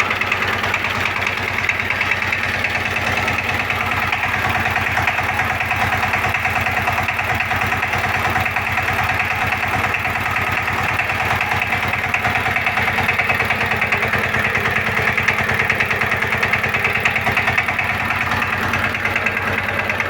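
A 20 hp horizontal single-cylinder diesel engine running steadily with a rapid, even firing beat, freshly crank-started for the first time.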